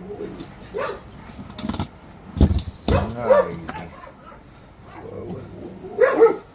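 A dog barking a few times, mixed with several sharp knocks from about one and a half to three seconds in.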